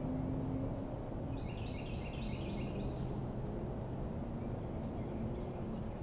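Steady low outdoor background rumble, with a bird giving a quick run of short, high calls for about a second and a half, starting about a second and a half in.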